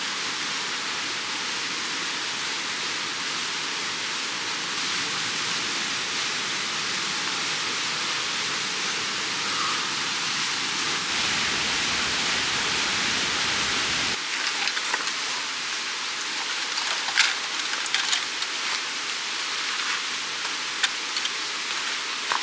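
Steady rushing of a mountain stream. From about two-thirds of the way through, a few sharp clicks and crackles sound over it.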